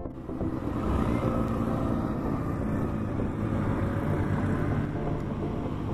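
Open beach buggy's engine running with a low, steady hum over road noise as it leads a cycling race.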